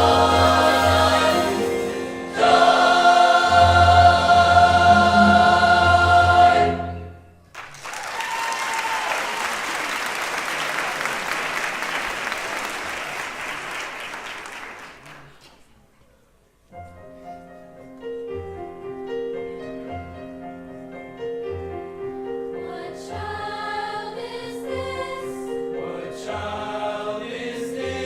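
A large high school choir sings with instrumental accompaniment and ends the song about seven seconds in. Audience applause follows and dies away after about eight seconds. After a short lull a new song starts with a steady, rhythmic accompaniment, and the singing builds up over it near the end.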